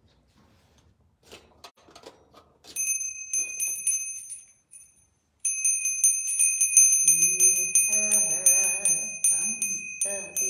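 Small hand bell rung rapidly and continuously with quick repeated strikes, pausing briefly about halfway through and then starting again. It is preceded by a few faint knocks.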